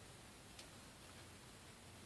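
Near silence: faint steady room hiss, with one faint click about half a second in.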